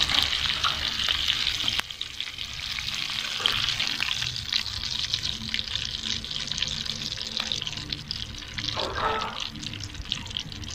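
Stuffed tinda gourds sizzling in hot ghee as they deep-fry, a dense, fine crackle of spitting oil. It becomes noticeably quieter about two seconds in.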